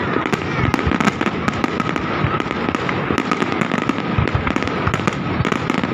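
Fireworks going off without pause: many bangs and crackles in quick succession, overlapping one another.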